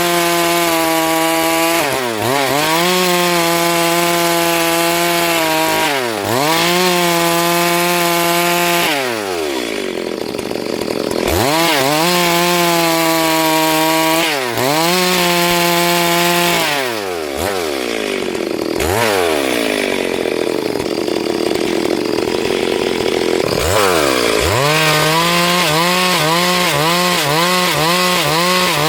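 Chainsaw running at high revs while cutting into a log, its pitch dipping again and again as the chain takes load, then picking back up. Twice it drops to a lower, rougher running for a couple of seconds, and near the end the pitch wavers quickly as the saw is worked in the cut.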